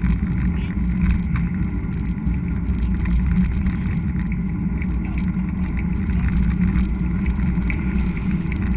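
Steady low rumble of a mountain bike ride: tyres rolling on the trail and wind on the camera.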